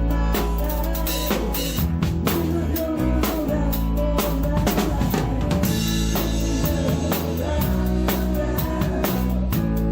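Live band music with the drum kit up front: steady kick and snare backbeat with rimshots, over bass and other instruments.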